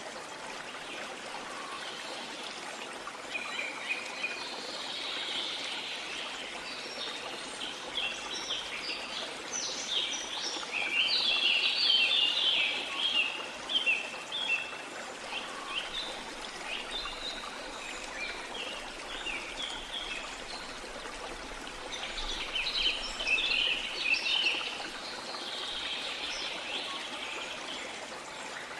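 Steady rush of a waterfall with many birds chirping and trilling over it, the birdsong busiest in the middle and again near the end.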